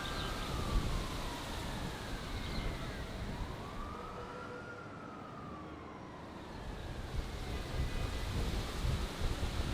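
A distant siren wailing in slow rising and falling glides over a steady rushing background noise.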